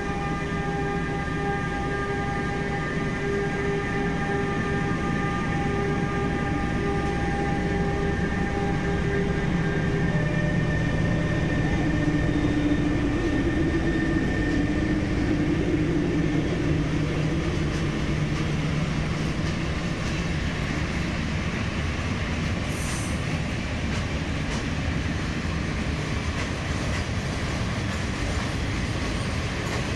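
Freight train of a Traxx electric locomotive and an SM42 diesel shunter hauling open coal wagons past. The locomotives give a steady whine for about the first ten seconds, then the wagons roll by with a continuous rumble and clatter.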